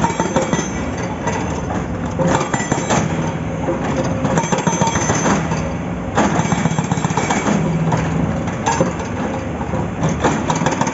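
Excavator's diesel engine running under load, with irregular metallic knocks and clanks as the large rock is broken up.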